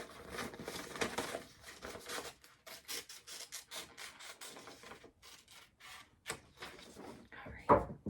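Scissors snipping through white paper with the paper rustling and rubbing against the hands, in short irregular strokes; a louder thump near the end.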